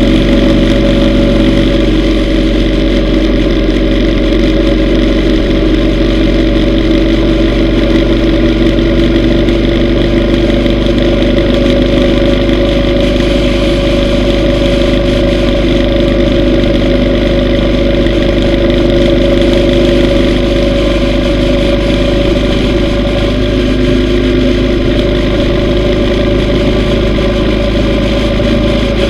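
Yamaha V Star 950's V-twin motorcycle engine running at a steady, unchanging speed.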